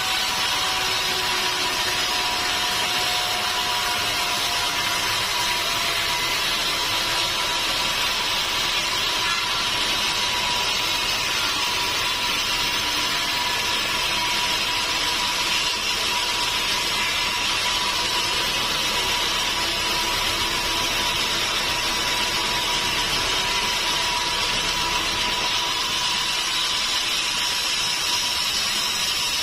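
Sawmill saw cutting steadily through a mahogany log: a continuous hiss with a steady whine, and a fainter tone that drops slightly in pitch in the first few seconds.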